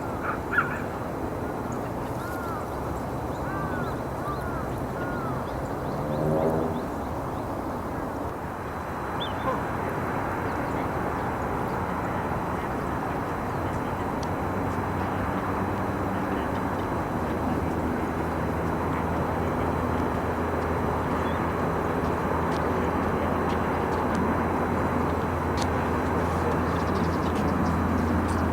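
Outdoor ambience with a few short, arching small-bird chirps early on, then a steady low engine drone that comes in about halfway through and grows louder toward the end.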